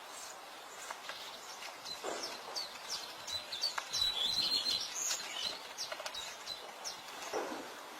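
Small birds chirping outdoors: a run of short high notes, with a brief warbling phrase about four seconds in.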